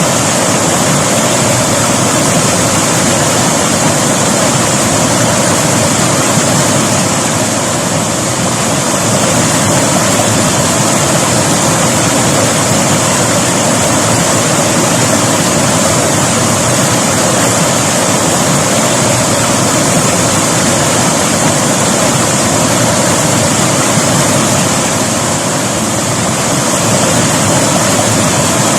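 River water flowing: a loud, steady wash of rushing water.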